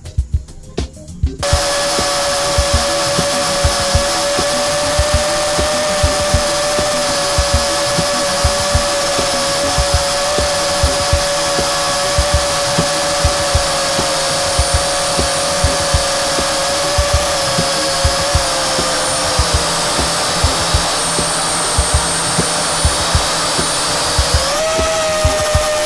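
Virhuck T905F quadcopter's motors and propellers whining steadily, starting abruptly a second or so in; the pitch sags slightly about two thirds of the way through, then rises sharply near the end as the drone throttles up. A regular music beat runs underneath.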